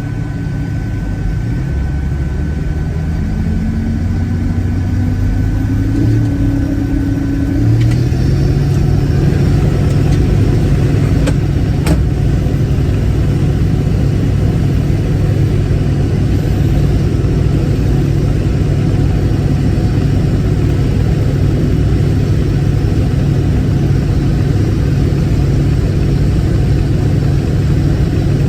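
Case IH 1680 combine's diesel engine throttling up, its pitch rising over the first eight seconds or so, then running steadily at high speed.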